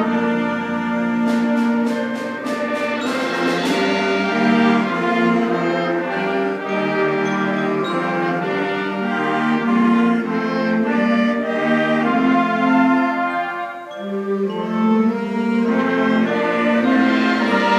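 School concert band of woodwinds and brass playing sustained full chords. About a second in, a quick run of sharp percussion taps sounds over the chords for a couple of seconds, and the band briefly drops back near the end before swelling again.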